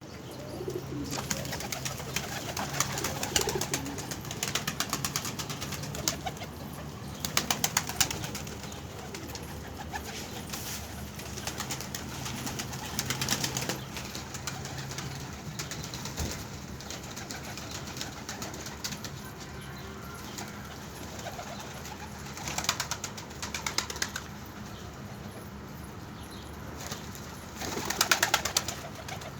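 Domestic pigeons cooing, broken every few seconds by short bursts of rapid wing flapping. A low steady hum runs under the first half.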